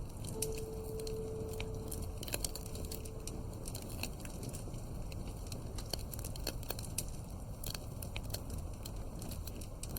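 Wood fire crackling in a fireplace: irregular sharp pops and snaps over a steady low rumble. A soft held music note sounds during the first few seconds, then fades.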